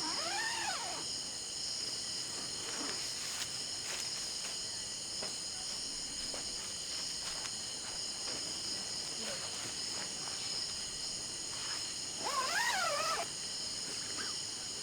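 Steady chorus of night insects such as crickets: several high-pitched tones held without a break. A short call that rises and falls in pitch comes just after the start and again, louder, about twelve and a half seconds in.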